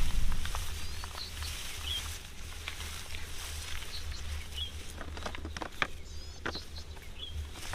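Outdoor field sound: a low wind rumble, scattered crackles and clicks, and a short high chirp from a small animal repeating about once a second.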